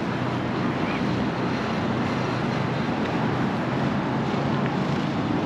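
Steady hum of road traffic, with wind on the microphone.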